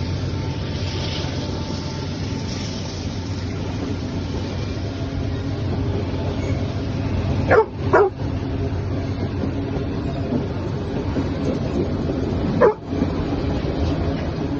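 A dog barks: two quick barks about halfway through and a single bark near the end, over the steady rumble of an empty grain freight train climbing a grade.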